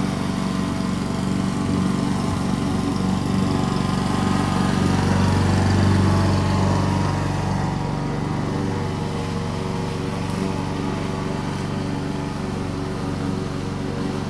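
Lawn mower running steadily while cutting grass, growing louder for a couple of seconds about midway and then settling back.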